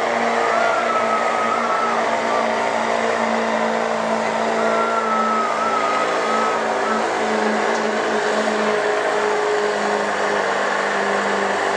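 Diesel 4x4 pickup truck engine running hard and steady under heavy load while pulling a weight-transfer sled down the track. It is a loud, continuous drone, with a wavering higher whistle that comes and goes twice.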